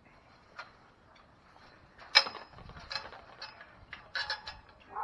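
Clicks, knocks and rattles of a plastic sea kayak and its fittings being handled, the sharpest knock about two seconds in and another cluster of clicks near the end.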